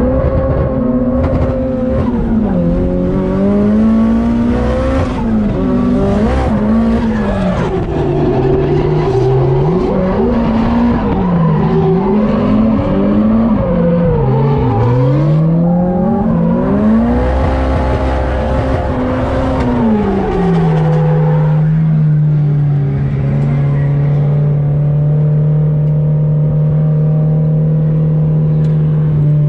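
Nissan S15 Silvia drift car's engine heard from inside the cabin, revving up and down again and again through a tandem drift, with tyre noise. About 20 seconds in it settles to a steady, lower note.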